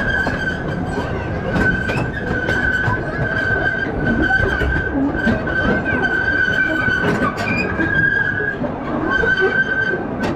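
C. P. Huntington replica amusement train running along its track, heard from a riding car: a steady rumble with a continuous high-pitched whine that breaks off briefly near the end, and scattered sharp clicks.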